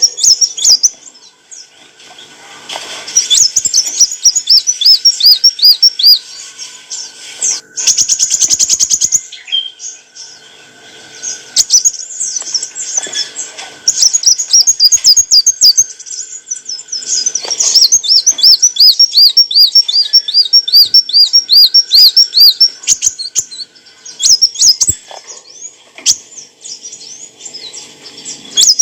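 Kolibri wulung sunbird singing: high, rapid phrases of quickly repeated chirping notes, with pauses between phrases and a fast buzzy rattle about eight seconds in.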